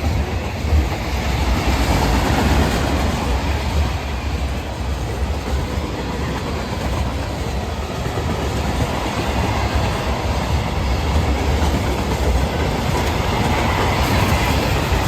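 Short freight train passing close by: a steady low rumble with the noise of wheels running on the rails.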